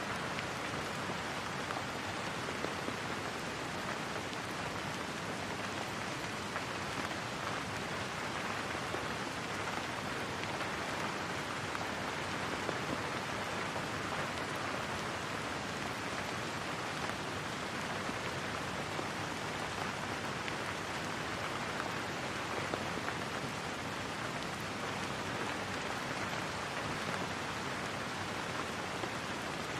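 Steady rain falling: an even, unbroken hiss of many drops, with no thunder and no change in level.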